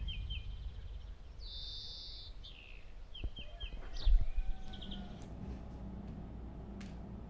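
Birds chirping in short runs of quick repeated notes, with a brief high trill near two seconds, over a low steady background. A single thump about four seconds in is the loudest sound.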